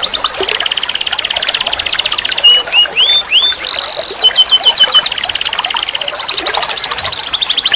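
Domestic canary singing: fast trilled rolls of rapidly repeated notes, a few rising whistled notes about two and a half seconds in, a short held whistle, then more quick trills.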